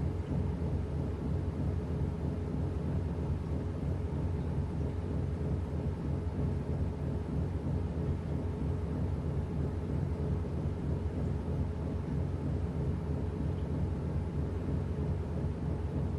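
Washing machine running mid-cycle: a steady low hum and rumble that stays even throughout.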